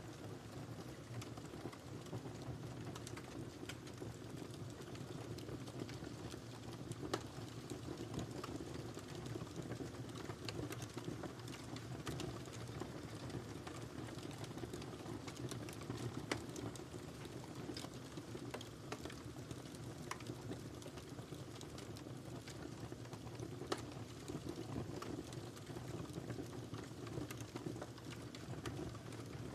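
Wood fire burning in a fireplace: a steady low rushing of the flames with frequent irregular crackles and pops, a few sharper snaps standing out.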